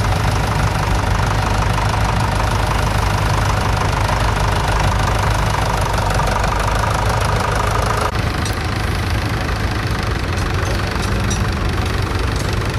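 Tractor engine running steadily, with an even low hum and a mechanical clatter; the sound shifts slightly about eight seconds in.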